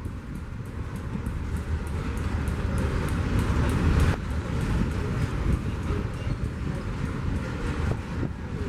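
Freight train rolling past: a steady rumble of cars on the rails with a quick run of light clicks, swelling to its loudest about four seconds in.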